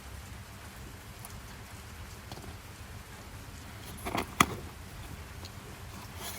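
Steady rain noise. About four seconds in, a short cluster of sharp clicks ends in one loud knock.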